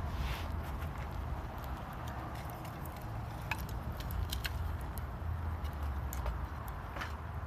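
Small wood campfire burning, with scattered sharp crackles and pops over a steady low rumble.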